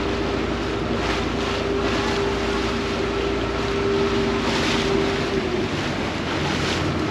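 Vaporetto water bus under way: its engine's steady hum, with water rushing past the hull and wind on the microphone. The engine note shifts lower about five and a half seconds in.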